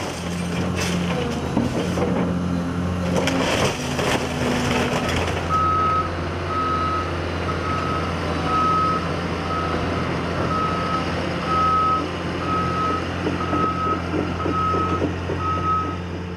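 Heavy diesel demolition machinery running steadily, with crashing and clattering of debris during the first few seconds; then, about five seconds in, a back-up alarm starts beeping about once a second as the machine reverses.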